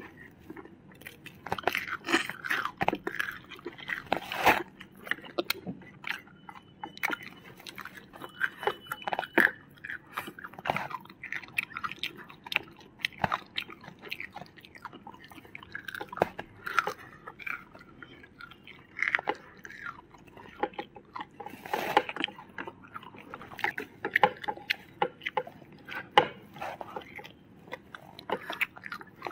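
Two people chewing and biting fried chicken and noodles close to the microphone: irregular wet mouth sounds, crunches and clicks.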